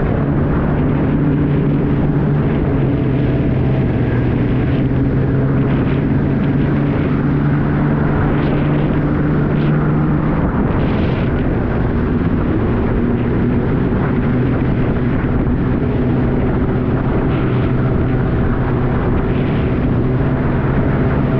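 Jet ski engine running steadily under throttle, a continuous drone with a slight drop in pitch about ten seconds in.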